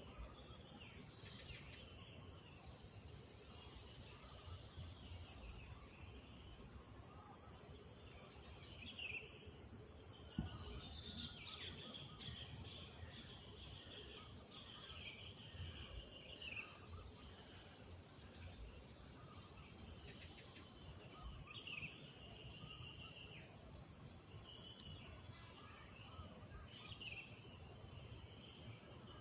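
Village morning ambience: birds giving short, repeated calls over a steady high drone of insects, with a low background rumble. A single low thump about ten seconds in is the loudest moment.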